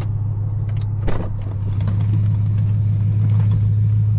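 BMW E92 M3's S65 V8 engine running steadily, with a single sharp knock about a second in.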